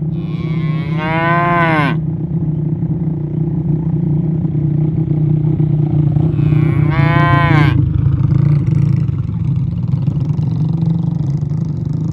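Cattle mooing: two long calls, one at the start and one about six and a half seconds in, each about a second and a half and falling in pitch at the end, over a steady low hum.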